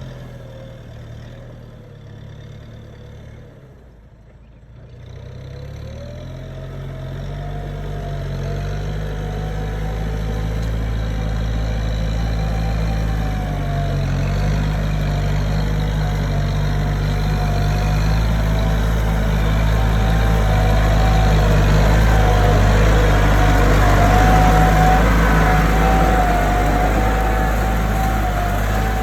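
Tractor engines running steadily, with a dip early on and then growing gradually louder, peaking near the end.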